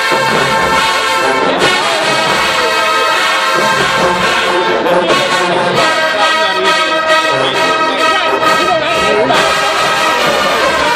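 Marching band's brass section playing loud, full ensemble music without a break, with trombones prominent.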